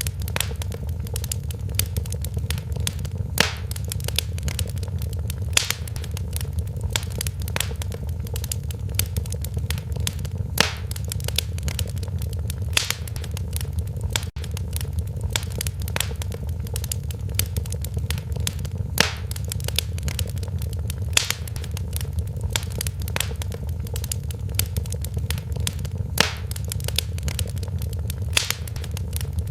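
Wood fire crackling in a fireplace: a steady low rumble of burning with frequent small crackles and a louder sharp pop every couple of seconds.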